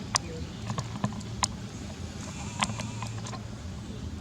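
Scattered sharp clicks and knocks, about eight, irregularly spaced, over a steady low hum.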